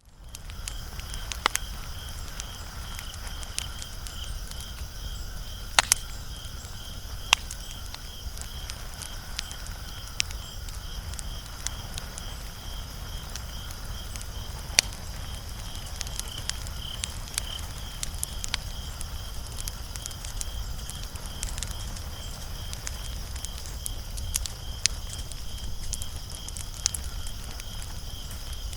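Wood fire crackling, with sharp pops scattered irregularly over a low, steady rumble of the flames; a few louder pops stand out, near 1.5, 6, 7.5 and 15 seconds in.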